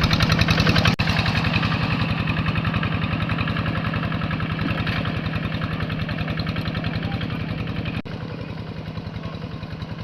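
Rice-field tractor's engine running with a steady, rapid, even beat; the level drops abruptly about a second in and again near the end.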